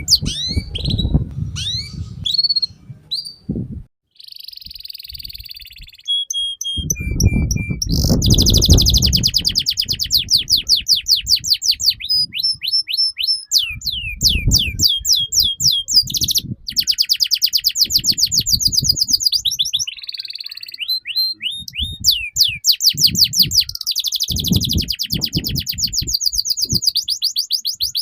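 Domestic canary singing a long, fast song of rapid repeated trills and downward-sweeping notes, with short breaks between phrases.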